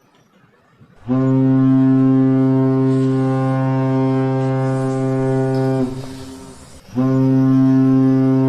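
Ship's horn sounding two long, steady, deep blasts: the first starts about a second in and fades out near six seconds, and the second starts about a second later.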